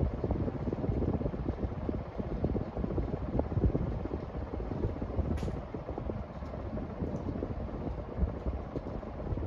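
Hampton Bay Gazebo Plus ceiling fan running, its moving air buffeting the microphone with an uneven low rumble. A brief faint high tick comes about five seconds in.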